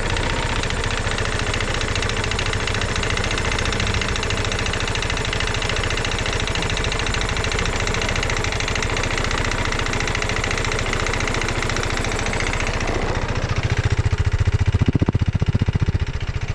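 Genuine Blur 220i scooter engine running, which the owner diagnoses as piston slap from a worn piston and rings. About 13 seconds in the note changes: the higher hiss fades and the low pulsing gets louder.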